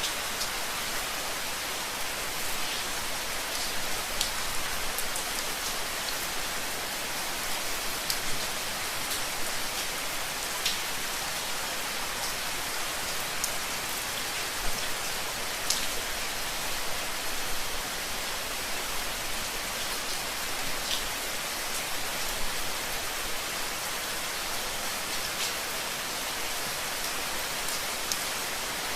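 Steady rain falling, an even hiss with scattered sharp drips of individual drops hitting a surface.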